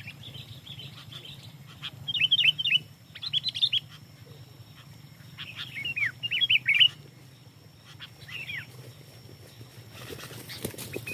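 Sooty-headed bulbul (kutilang) calling in several quick bursts of short, sliding chirps. A steady low hum runs underneath, and there are a few brief clicks near the end.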